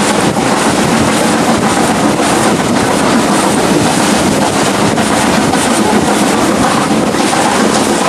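Steady, loud running noise of a heritage train in motion, heard from a carriage hauled by BR Standard Class 5 steam locomotive No. 73096.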